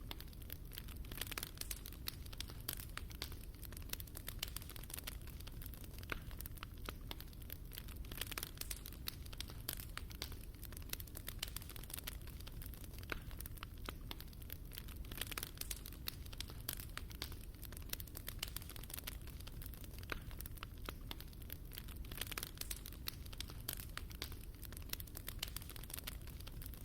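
Wood fire burning in a fireplace, crackling with many small irregular pops and snaps over a low steady rumble.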